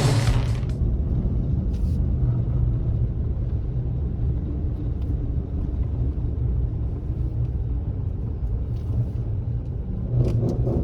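Pace truck's engine and road rumble heard from inside the cab during a ride: a steady low drone.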